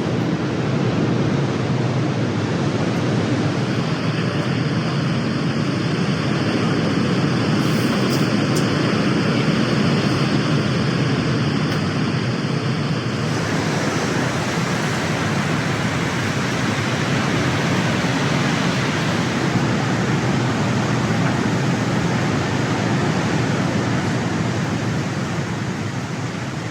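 Steady rushing noise of ocean surf, even and without breaks, with a faint high steady tone through the first half.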